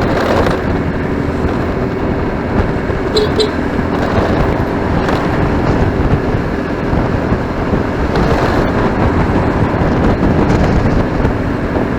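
Motorcycle riding in city traffic: steady engine, road and rushing noise with no break, and two short tones just after three seconds in.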